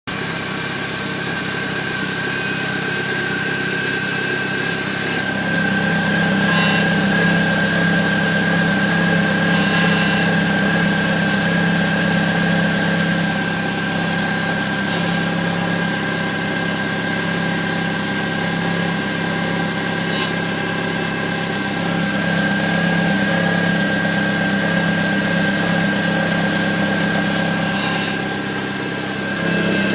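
BMW E46 316i's M43 four-cylinder engine idling, with a steady high-pitched metallic whine over the engine note. The noise shows up for two to three minutes after a cold morning start and then goes away, and its source is unknown to the owner.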